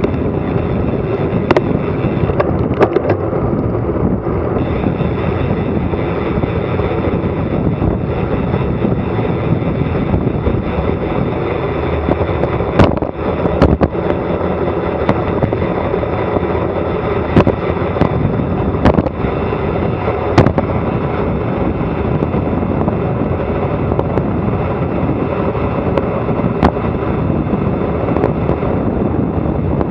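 Loud, steady wind rushing over an action camera's microphone during a fast bicycle descent, with occasional sharp knocks.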